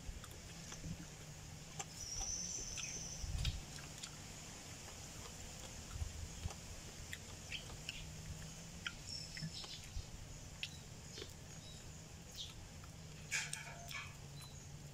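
Close-up eating sounds of chicken feet being chewed and picked at by hand: scattered small clicks and mouth smacks, with a faint steady low hum underneath. A bird chirps briefly about two seconds in.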